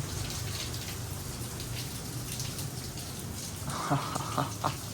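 Water dripping and spattering: a steady hiss of falling spray with many scattered drops, like rain. A few brief faint voice sounds come in near the end.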